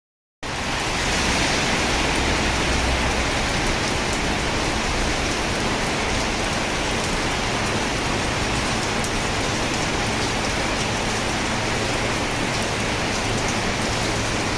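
Heavy rain pouring down in a steady, dense hiss that cuts in abruptly right at the start.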